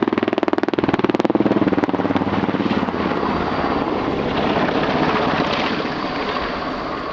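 NH90 twin-turbine helicopter's main rotor beating with a rapid, even chop for the first couple of seconds, which then smooths into a steady rushing rotor and turbine noise.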